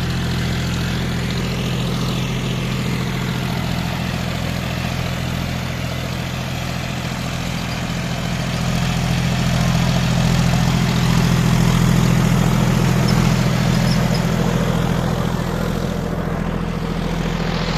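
John Deere 5050D tractor's three-cylinder diesel engine running steadily, growing somewhat louder in the middle before easing back.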